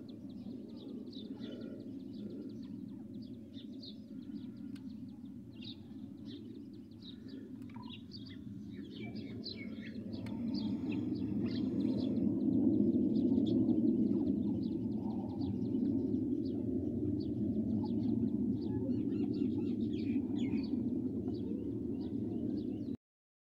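Many short, faint bird chirps over a steady low rumbling noise that grows louder about ten seconds in. The sound cuts off abruptly near the end.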